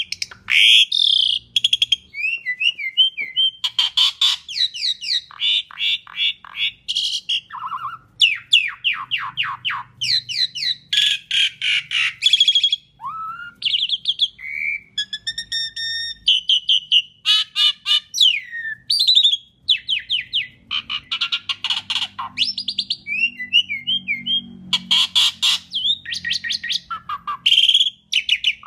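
Asian pied starling singing a long, varied song: rapid chattering runs, sliding whistled notes and harsh squawks, broken by short pauses.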